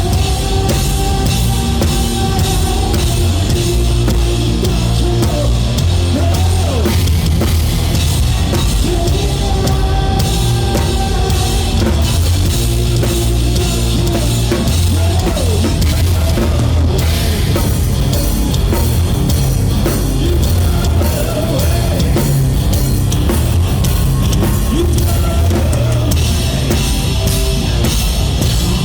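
Live rock band playing at full volume: a drum kit with dense kick and cymbal hits under distorted electric guitars and bass, the drums loudest.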